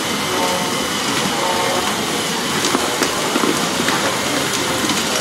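Radio-controlled hydraulic Volvo excavator model working: a steady mechanical whir from its hydraulic pump and drive, with faint steady tones and scattered small clicks and knocks.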